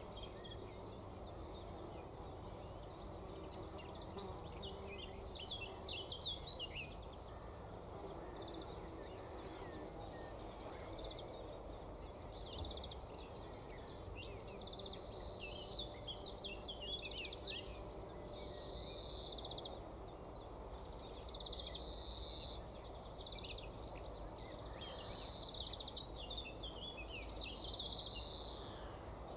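Small birds chirping in quick, high, falling notes, with short buzzy phrases in the second half, over a steady low rumble of outdoor background noise.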